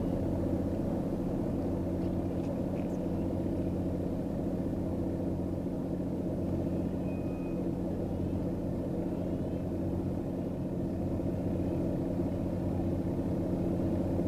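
A steady low engine hum, running evenly without any change in speed.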